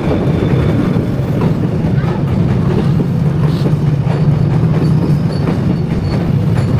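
Train passing at close range, a loud, steady rumble of wheels on rails.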